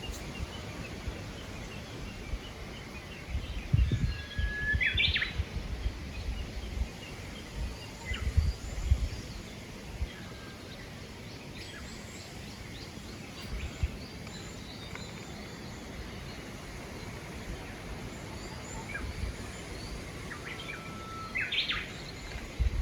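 Outdoor garden ambience with wind buffeting the microphone in low gusts, and a bird singing twice, about five seconds in and near the end: each time a held whistle followed by quick rising notes, with fainter chirps in between.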